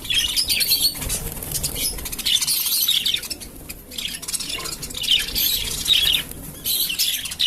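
Small pet parrots chirping and chattering in fast, overlapping high twitters, mixed with quick clicks and scuffles.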